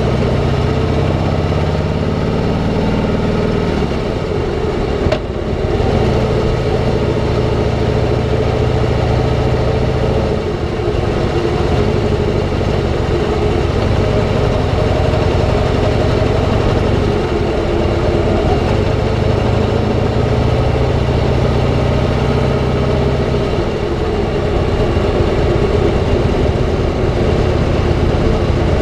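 Harley-Davidson V-twin engine running while the motorcycle rides along, its note shifting a few times with throttle and speed, over steady wind and road noise. A single short knock about five seconds in.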